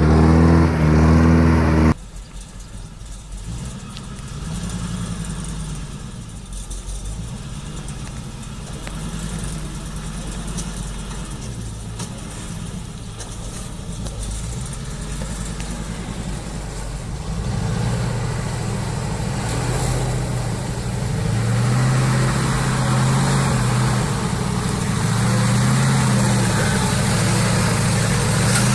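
Truck engine under load, its pitch rising and falling as it revs, growing louder in the second half. A louder, steady-pitched sound at the start cuts off abruptly about two seconds in.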